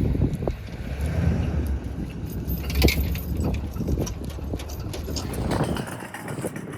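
Wind buffeting the microphone in gusts, with irregular knocks and crunches over it; the wind rumble eases about six seconds in.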